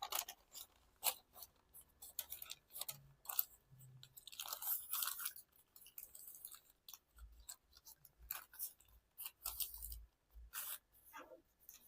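A square of origami paper being folded and creased by hand into a primary base: faint, irregular crinkling and rustling with short crackles as the paper is pressed and shifted.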